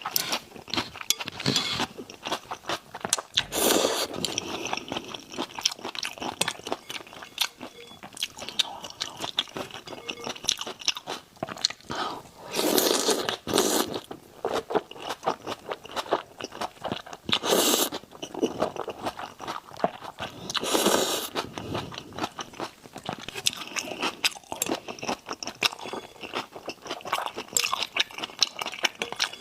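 Close-up eating sounds of raw shrimp and noodles: rapid wet crunching, biting and chewing clicks, with a few louder bursts of about a second each.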